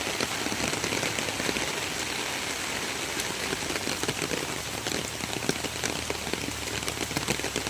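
Steady rain falling, with a dense patter of drops hitting a surface over a steady hiss.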